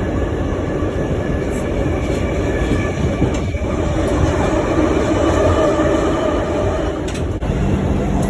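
New York City subway train running, a steady rumble of wheels on track with a faint motor whine over it.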